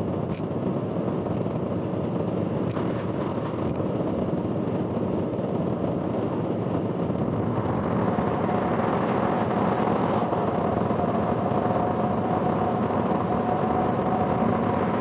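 Car driving on an expressway: a steady rumble of road and engine noise, with a steady whine that comes in about halfway through and holds.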